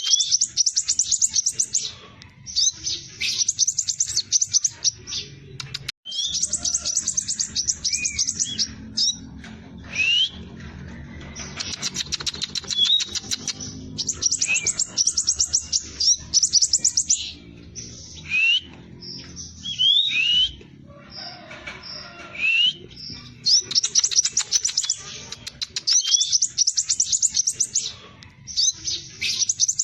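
Scarlet minivet singing hard in bursts of very fast, tightly packed high trills, each a second or two long. Single short upward-sweeping whistles fall between the bursts.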